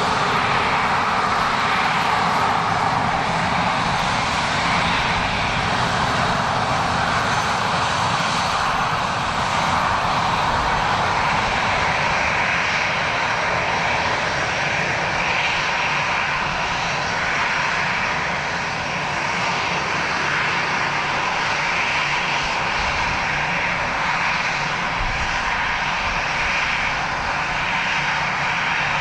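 Airliner engines running, a loud, steady noise whose strongest part shifts higher in pitch about halfway through.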